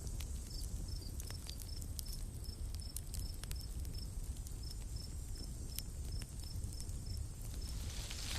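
Forest ambience: a high insect-like chirp repeating about three times a second over a steady low rumble, with scattered sharp crackles from a campfire. Near the end a rushing hiss of wind swells up and the chirping stops.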